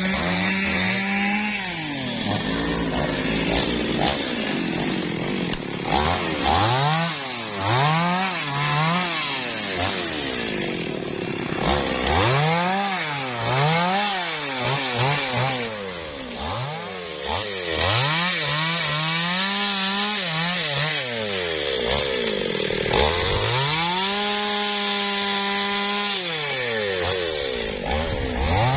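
MOTOYAMA 1000 two-stroke chainsaw cutting teak, its engine revving up and dropping back again and again, then held at full revs for about three seconds near the end.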